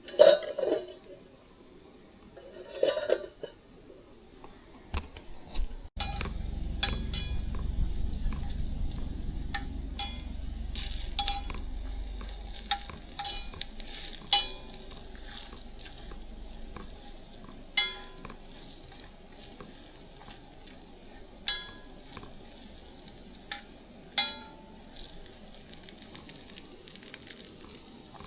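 Sizzling and crackling, with a couple of clattering knocks near the start. A low rumble comes in suddenly about six seconds in and fades out by about seventeen seconds.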